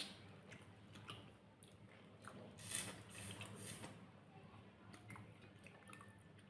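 Close-up chewing of a mouthful of food, with soft wet smacks and small clicks and a louder stretch about three seconds in.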